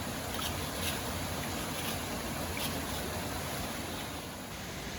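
Steady rushing of a stream and waterfall, with a few faint short high ticks.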